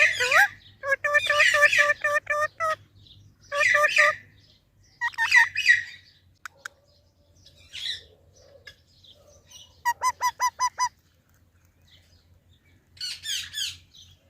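Green parrot calling in several bursts of rapid repeated notes, with pauses between them, and harsher screeches near the end.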